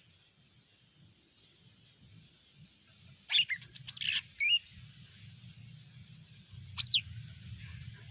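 Cucak ijo (green leafbird) singing: a quick burst of sharp chirps and whistled notes about three seconds in, then one more short call near the end.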